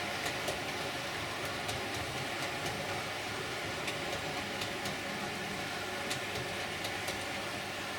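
Model HST train running down a helix: a steady electric motor hum with frequent sharp clicks of the wheels passing over the rail joints.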